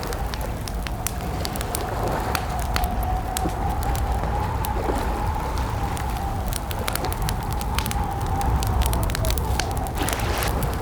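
Campfire crackling: irregular sharp pops and snaps from burning wood over a steady low rumble of the flames. A steady, slowly wavering tone sits in the background.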